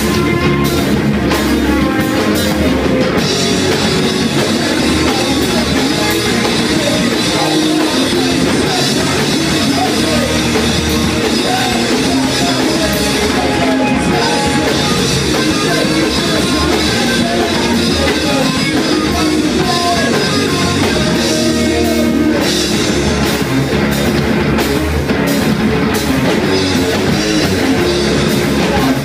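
Loud rock music with drum kit and electric guitar, playing continuously.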